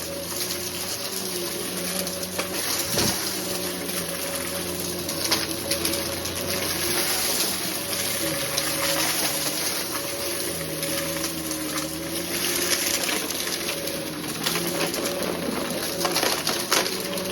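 Vacuum cleaner running steadily, its motor hum wavering slightly in pitch, with scattered crackles and clicks of debris being sucked up during a mess test.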